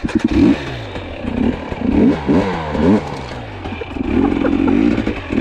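Two-stroke enduro dirt bike engine revving in quick blips, its pitch rising and falling, then held steadier near the end.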